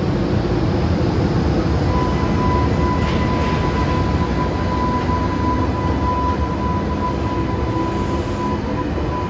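EH500 twin-unit electric freight locomotive hauling container wagons past at low speed, restarting after an emergency stop: a steady rumble of wheels on rail and running gear, with a steady high whine from about two seconds in.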